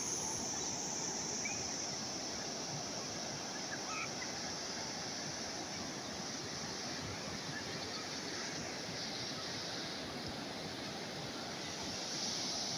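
Calm sea waves washing on the shore: a steady hiss of surf that swells a little near the end.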